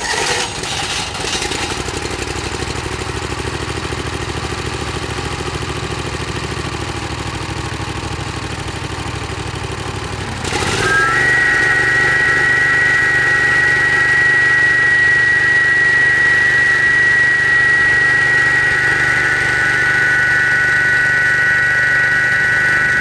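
Husqvarna walk-behind concrete saw's Honda gas engine running at idle, then about ten seconds in throttled up to high speed, where it runs steadily with a high whine.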